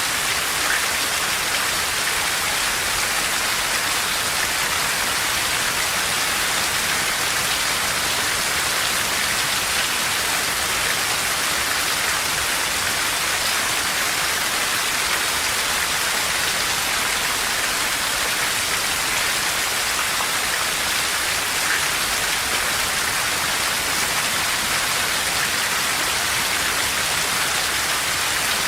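Steady rain falling, an even hiss of many drops with the odd single drop standing out.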